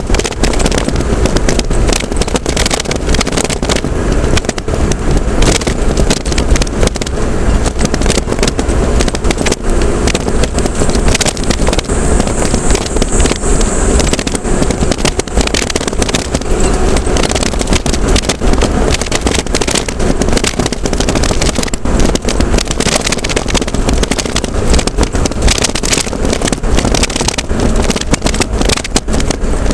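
Road vehicle on the move: steady engine and road noise with a heavy low rumble and constant crackling.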